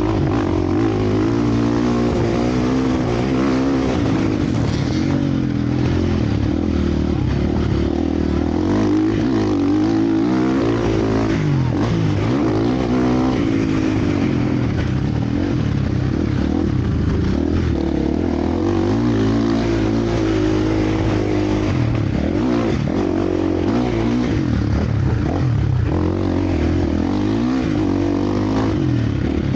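Several motocross bikes racing around a dirt track, their engines overlapping and revving up and down continuously as riders accelerate and shift.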